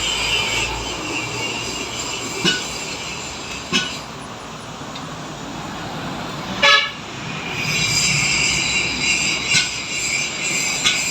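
Workshop sounds during truck brake work: a steady high-pitched whine that dies away in the middle and comes back, with five sharp metallic knocks, the loudest about two-thirds of the way through.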